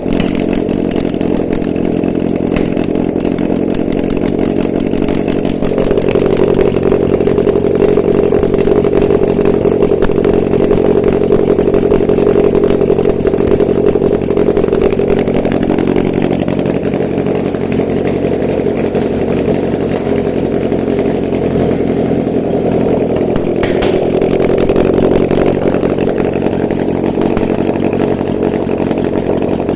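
Used Toyota 2ZR-FE 1.8-litre four-cylinder petrol engine running on a test stand. It runs steadily, rises in speed and loudness about six seconds in, holds there for several seconds, then settles back, with a second, shorter rise near the end.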